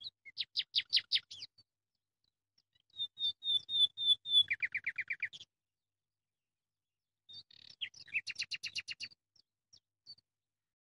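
A songbird singing three short phrases of rapid, repeated trilled notes, with pauses of about two seconds between them.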